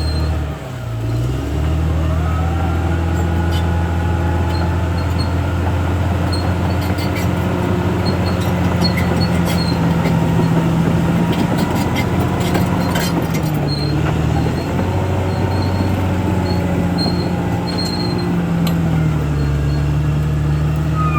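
CAT D6R XL bulldozer's diesel engine running steadily under load. About half a second in, its note dips sharply and recovers within a second or so. Short knocks are scattered through the middle.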